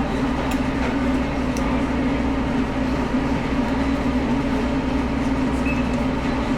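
Steady low mechanical drone of running machinery, with a few faint clicks.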